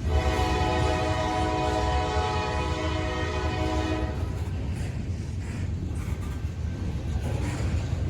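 Nathan K5LA five-chime horn on a CSX GE AC44CW locomotive, sounded in one steady blast of about four seconds, which then cuts off. Under it and after it, the low rumble of the passing train.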